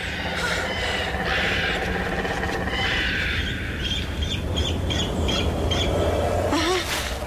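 Birds chirping over a steady outdoor background, with a quick run of short, repeated high chirps in the second half.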